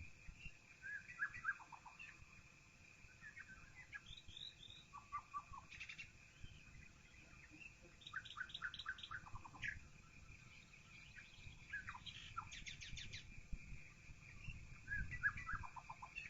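Songbirds chirping faintly, in short quick runs of notes, several stepping down in pitch, every couple of seconds, over a steady thin high-pitched tone.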